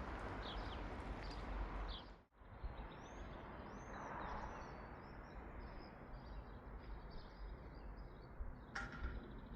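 Outdoor ambience: a steady low rumble with birds chirping and singing. The sound drops out briefly about two seconds in, then the birdsong goes on, with one sharper call near the end.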